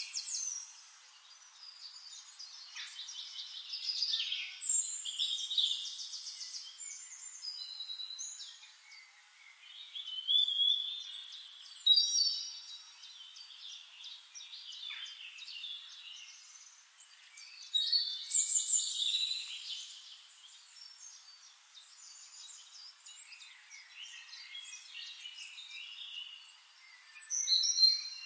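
Birds chirping and trilling, several high calls overlapping, swelling into louder bursts every few seconds.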